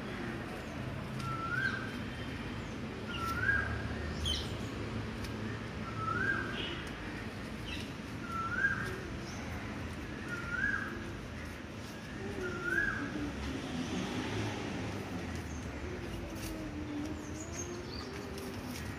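A bird calling a short rising note over and over, about every two seconds, six times, stopping about 13 seconds in, with fainter chirps from other birds.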